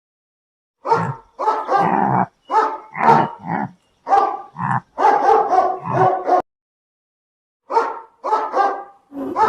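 Dog barking in a run of short barks, then pausing about six and a half seconds in before barking a few more times.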